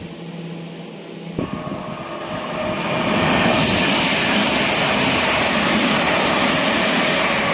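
A pair of coupled Class 387 electric multiple units passes through the station at speed. Wheel-on-rail and rushing-air noise comes in suddenly about a second and a half in, builds over the next second or two, then holds loud and steady.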